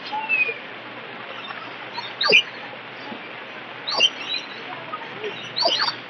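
Birds calling: three short, sharp calls a second or two apart over a steady background hiss.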